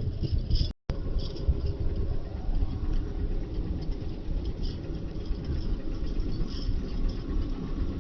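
Steady low rumble of a moving road vehicle, broken by a split-second dropout just under a second in.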